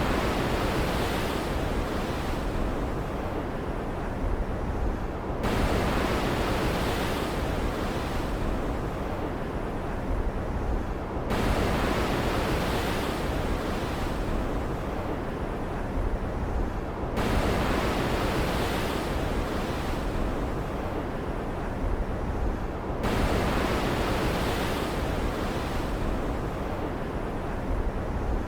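Stormy ocean waves: a steady rushing hiss, with a fresh surge of surf breaking about every six seconds and easing off between them.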